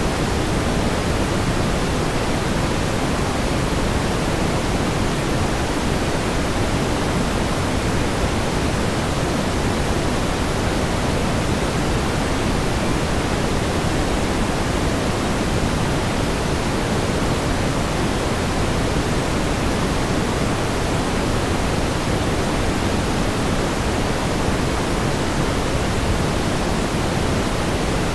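Steady pink noise: an even, unchanging hiss weighted toward the low end, with no events or variation.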